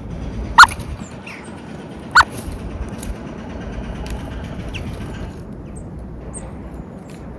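Two short, loud bird calls about a second and a half apart, with a few fainter chirps and small clicks. A steady low rumble runs underneath.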